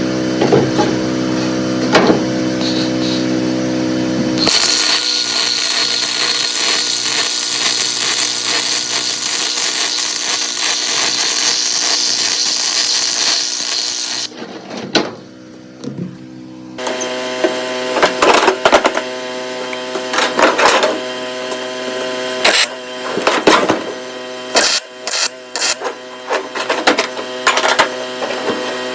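Welding in the metal shop: a welder's steady electrical hum with scattered sharp arc crackles as the brackets are tack-welded, and a long stretch of harsh, high hiss in the middle that stops abruptly about 14 seconds in.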